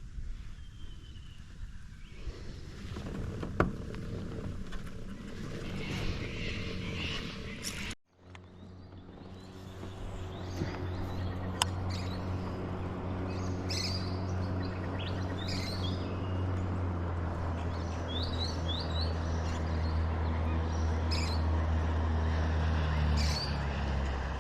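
Small birds chirping and calling. After a cut about a third of the way in, a steady low motor hum builds gradually under the birdsong and stops near the end.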